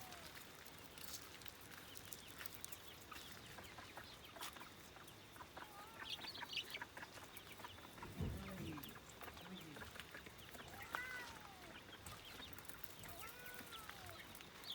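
Backyard chickens clucking softly, with a few separate drawn-out calls that rise and then fall in pitch.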